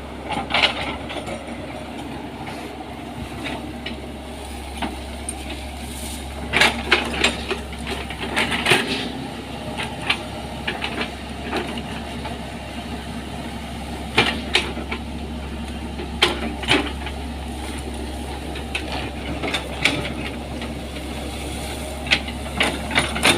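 Excavator's diesel engine running steadily, with irregular sharp metallic knocks and clanks over it.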